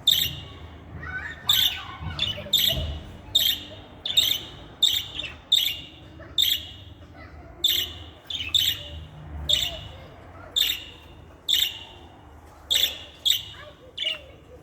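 Budgerigar giving short, sharp, high chirping calls over and over, about one to two a second.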